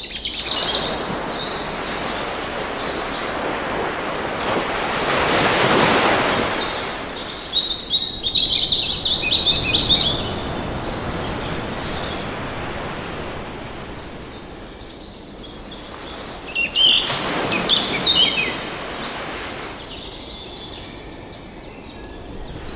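Ocean surf washing in, swelling twice, with tropical birds chirping and calling over it in quick bursts.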